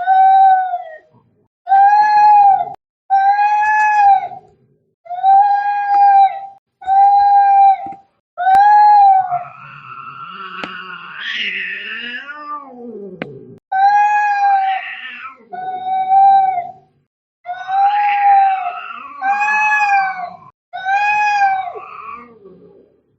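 Angry cats caterwauling in a fight: a string of about a dozen loud yowls, each about a second long. In the middle there is a rougher stretch where a lower, wavering growl rises and falls.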